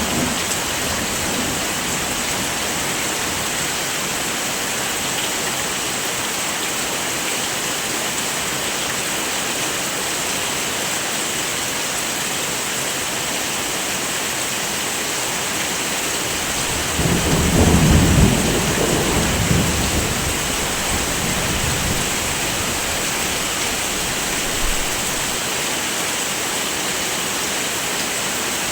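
Steady heavy rain hissing throughout, with a low roll of thunder rumbling up a little past halfway and fading over a few seconds.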